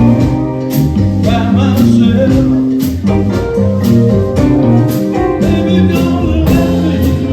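A live band playing, with guitar over a steady drum beat.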